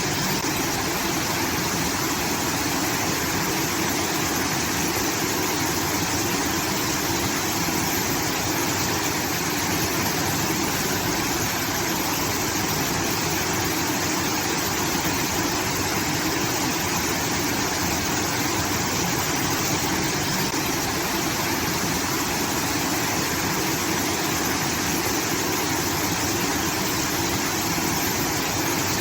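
Water pouring steadily through a rice-field irrigation outlet, a constant rushing like a small waterfall.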